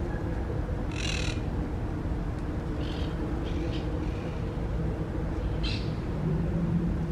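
Brief high chirps from birds in the pine branches, four or five short calls spread across several seconds, over a steady low hum.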